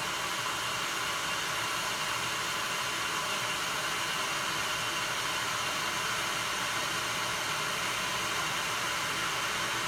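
Aicok 1.7-litre stainless steel electric kettle heating a small amount of water, giving a steady, even hiss as the water nears the boil.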